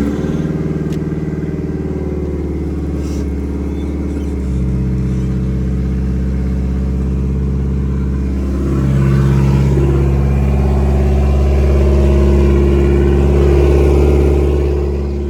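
Nissan S13's SR20DET turbocharged four-cylinder running at cold-start fast idle just after starting, sounding pretty smooth now that a holed intake coupler has been replaced. Its note shifts slightly about four seconds in, then steps up and gets louder around nine seconds.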